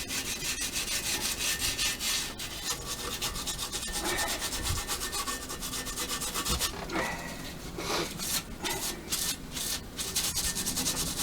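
Sandpaper rubbed by hand across the edge of a V8 intake manifold in rapid back-and-forth strokes, taking off leftover gasket material and a sharp casting edge. The strokes come fast and steady, then turn into shorter separate strokes in the second half.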